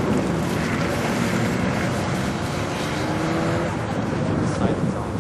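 Turbocharged 1999 Cougar running, with engine and turbo noise over a steady rush; one pitched tone rises gently around the middle.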